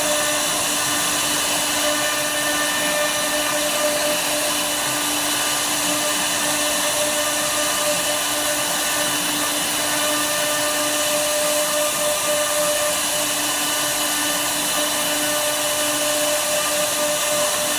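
Woodworking CNC router spindle running steadily at a constant high pitch while its bit cuts wood, with a hiss of cutting noise over it.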